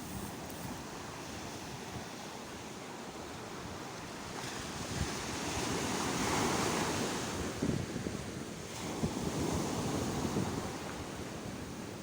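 Sea waves washing onto a shore, with the surge swelling to a peak about halfway through and again near the end. Wind rumbles on the microphone underneath.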